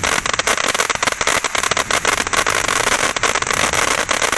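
World Class 'Just Trippin'' consumer firework fountain burning: a steady hissing spray thick with rapid, irregular crackles.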